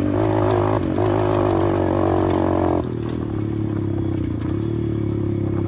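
A 125 cc pit bike engine running while being ridden. About three seconds in the throttle eases off and the engine note drops to a quieter, steadier run.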